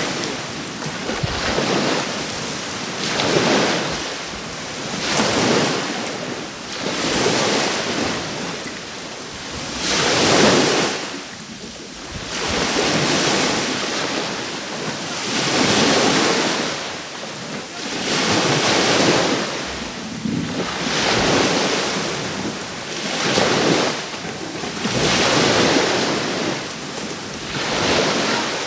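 Small sea waves breaking and washing up a beach, one surge of surf every two to three seconds.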